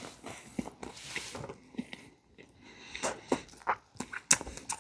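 A person chewing a mouthful of fish sandwich, with irregular short clicks and smacks.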